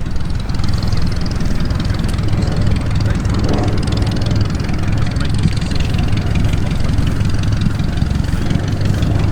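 Aircraft engine running steadily at idle, a continuous low rumble.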